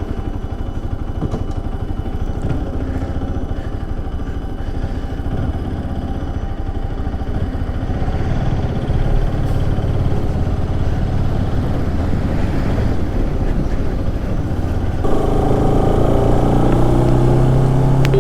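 Bajaj Pulsar motorcycle engine running on the move, its note rising partway through as it picks up speed. About three-quarters of the way in the sound changes suddenly to a louder, higher hum.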